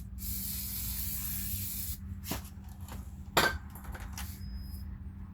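A spray hissing steadily for about two seconds, then stopping, followed by a few sharp clicks and knocks of metal parts being handled; the loudest knock comes about three and a half seconds in.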